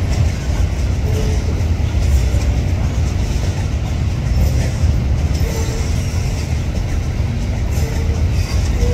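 MRS freight train rolling past: a steady low rumble from the diesel-electric locomotive and the loaded freight wagons running over the rails, with a few short faint tones.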